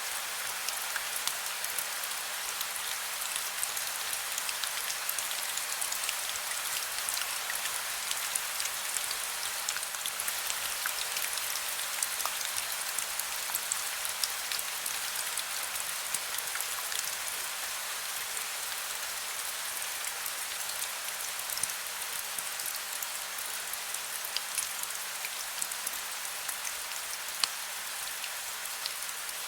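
Heavy rain falling steadily, a dense even hiss full of small individual drop ticks, with one sharper drop near the end.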